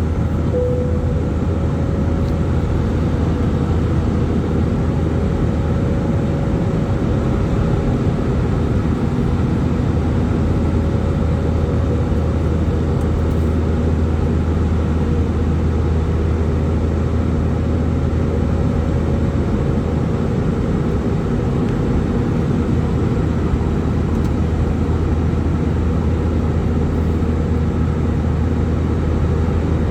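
Airbus A320-200 jet engines and airflow heard inside the cabin over the wing: a steady, loud drone with a low hum and a fainter higher tone, unchanging throughout.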